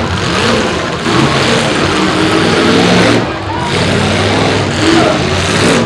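Demolition derby cars' engines running hard and revving, several at once, as the cars push against each other.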